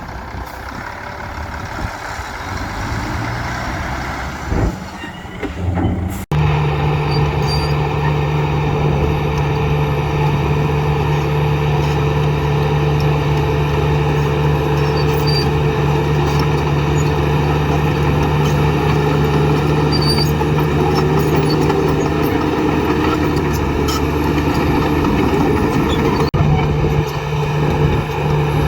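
Heavy diesel construction machinery working: uneven engine and working noise at first, then, after a sudden cut about six seconds in, a steady diesel engine drone with a strong low hum.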